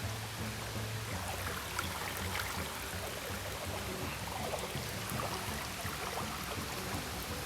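Creek water trickling and lapping around a kayak, with scattered small drips and ticks.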